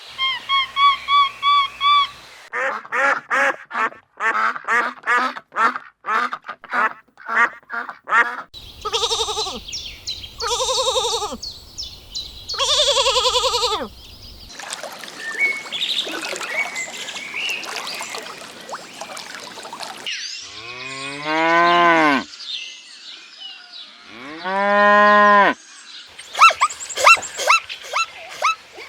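A series of different farm animal calls one after another: a run of short repeated calls, then three long calls, then two long drawn-out calls that rise and fall in pitch.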